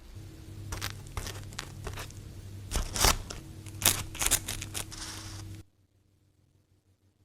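A run of sharp crackles and clicks, the loudest about three and four seconds in, over a low steady hum; the sound cuts off suddenly about five and a half seconds in, leaving near silence.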